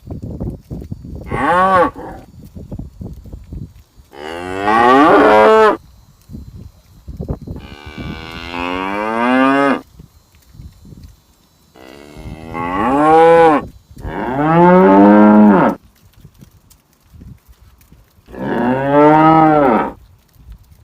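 Cattle mooing repeatedly: six long, loud calls a few seconds apart, each bending up and then down in pitch.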